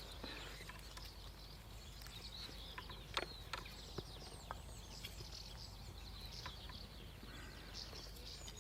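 Faint songbirds chirping and calling, with a few scattered sharp clicks around the middle.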